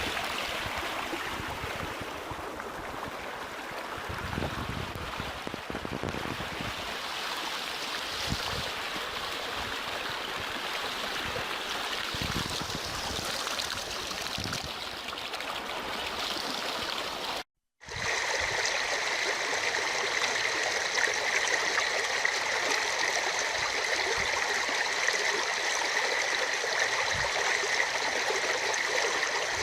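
Oued Chraa river, swollen by heavy rain, rushing and gurgling steadily. About two-thirds of the way through the sound cuts out for a moment, then comes back as a steadier, brighter rush.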